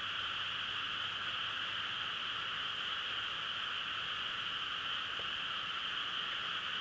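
A dense, continuous chorus of frogs calling, an even, unbroken trilling wash with no single calls standing out.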